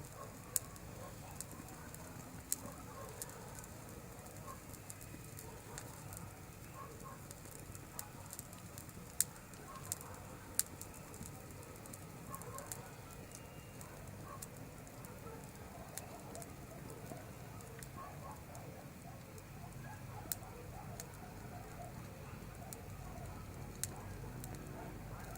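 Campfire burning: a low steady crackle broken by sharp single pops of burning wood, scattered irregularly a dozen or so times.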